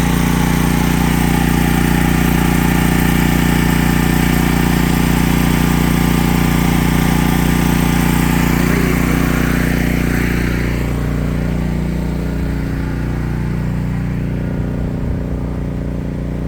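An engine running steadily at a constant speed; about eleven seconds in it becomes quieter and duller.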